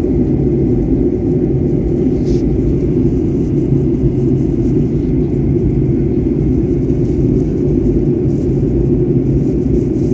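Steady low rumble of engine and airflow noise inside the passenger cabin of a Boeing 737-800 airliner descending towards landing.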